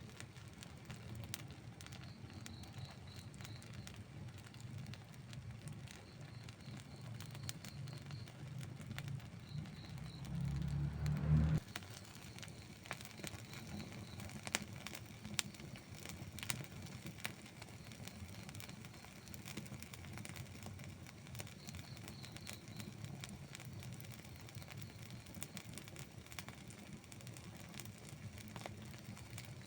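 Wood campfire burning, crackling with scattered sharp pops over a low steady rumble. About ten seconds in, a low rumble swells for a second or two, then cuts off suddenly.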